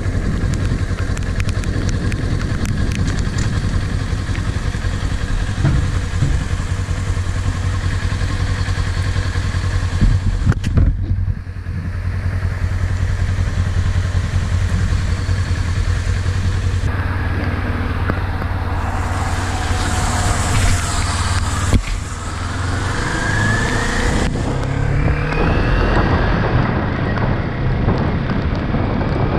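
Kawasaki Ninja 400's parallel-twin engine running steadily under way, with wind and road noise over it. Toward the end the engine note rises several times as the bike accelerates.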